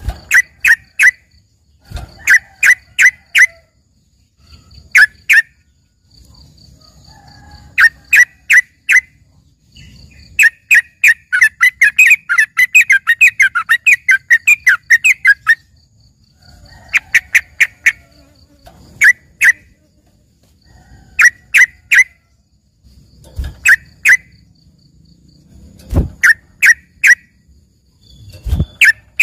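Yellow-vented bulbul (trucukan) singing: short bursts of three to five sharp, loud notes repeated every second or two, with a fast chattering run of many notes in the middle. A faint high pulsing chirp runs in the gaps, and a few low thumps come near the end.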